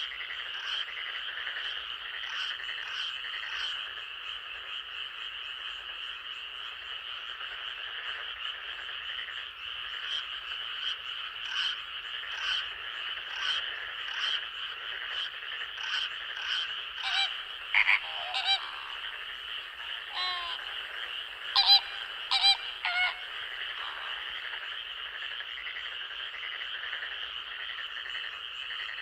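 Night-time forest chorus of frogs: a steady, dense chorus with short calls repeating on top of it. A few louder calls stand out between about 17 and 23 seconds in.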